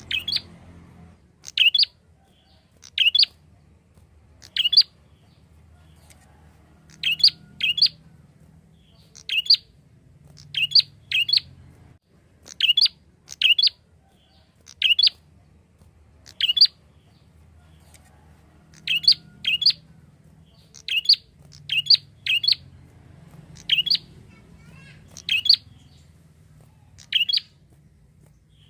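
A prinia (prenjak) calling: short, sharp, high chirps, single or in quick pairs, repeated every second or two.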